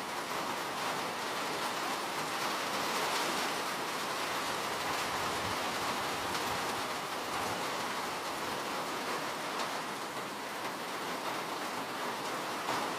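Steady rainfall, a continuous even hiss of falling rain with faint scattered drop ticks.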